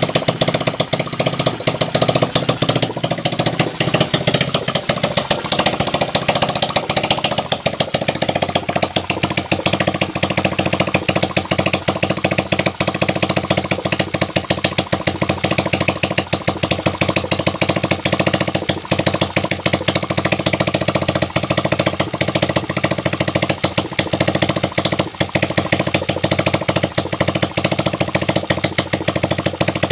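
Kawasaki Aura Classic 110 motorcycle engine running steadily at idle, with a rapid, even ticking clatter; its pitch settles a few seconds in.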